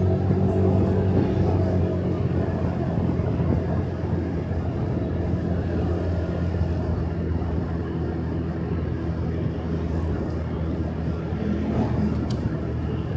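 Motorcycle engine running steadily while riding, with road noise. It drops slightly in level about four seconds in, and there is a brief click near the end.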